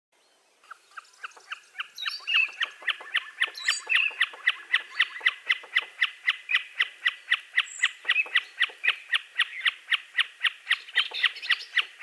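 A bird calling in a rapid, evenly spaced series of short chirps, about four a second, each a quick downward sweep. It starts faintly under a second in and is full strength by about two seconds. A few other, higher bird notes come in between two and four seconds in.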